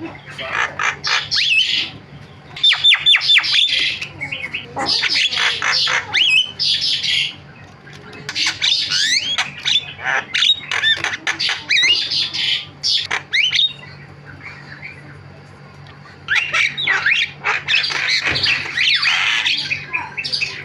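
Javan myna (jalak kebo) singing in bursts of harsh squawks and rapid sweeping whistled notes, with short pauses between bursts and a longer pause of about two seconds past the middle.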